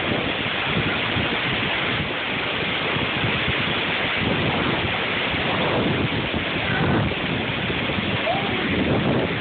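Strong wind rushing steadily as a tornado passes, with gusts buffeting the microphone.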